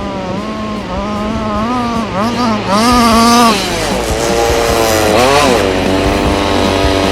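Small two-stroke gas engine of a 1/5-scale RC trophy truck revving up and down repeatedly, its pitch rising and falling as the throttle is worked.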